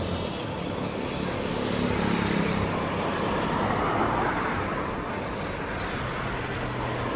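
Street traffic: the running hum of cars going by, swelling as a vehicle passes about two to four seconds in, then easing off.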